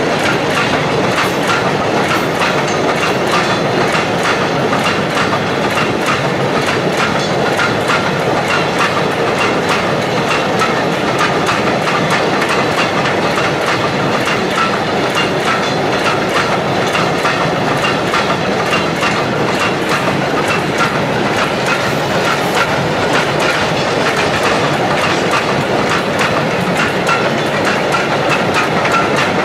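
Long freight train of silo-type bulk cement wagons rolling past close by at speed: a steady rush of wheels on rail with a rapid clatter of clicks over the rail joints and a faint steady ring.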